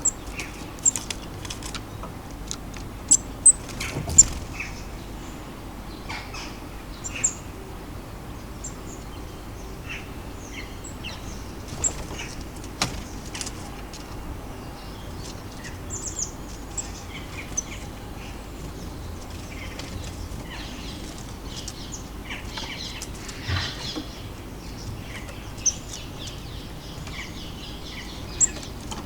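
Small garden birds chirping in short, scattered calls, with several sharp clicks or taps, the loudest about four seconds in, over a steady low rumble.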